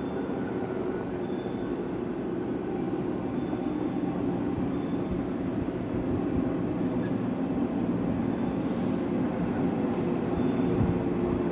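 JR West 113 series electric train rolling into a station and slowing, its running rumble growing steadily louder as it nears, with a faint high squeal over it.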